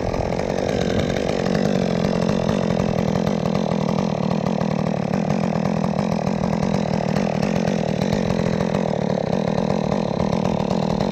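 Chainsaw running steadily at an even speed.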